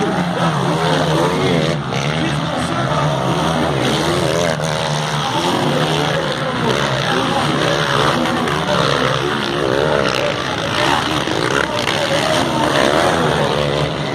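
Several motocross motorcycle engines racing, their revs rising and falling rapidly and continuously.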